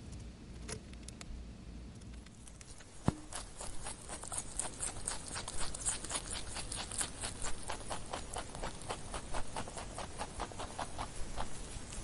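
Lop rabbit nibbling and chewing: after a single sharp click about three seconds in, a rapid, crisp run of small crunching clicks, several a second, that keeps going. Before it there are only a few faint clicks.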